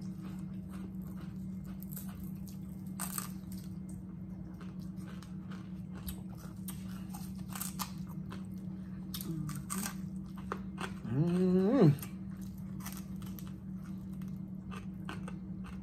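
Close-up eating sounds: biting, crunching and wet chewing of fried whole catfish eaten by hand, many small mouth clicks and smacks over a steady low hum. About eleven seconds in, a brief rising vocal hum of enjoyment stands out as the loudest sound.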